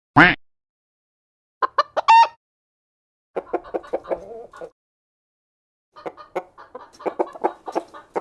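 Chickens clucking. A single loud squawk comes just after the start, followed by a few short calls and then two runs of rapid, short clucks with pauses between them.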